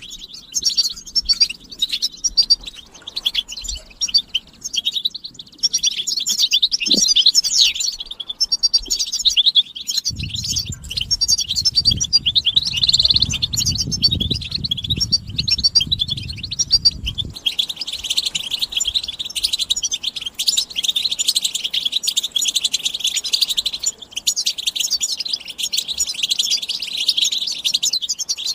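European goldfinches chattering and twittering in a dense, unbroken stream of rapid high chirps: the group contact and mating calls used to stimulate male goldfinches to sing. A low rumble runs underneath for about seven seconds in the middle.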